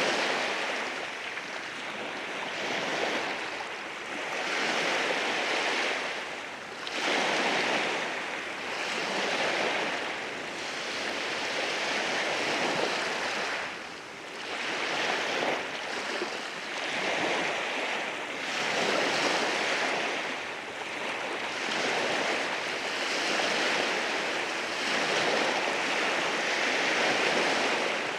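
Waves breaking and washing over rocks on a beach. The rushing surges and eases every few seconds as each wave comes in.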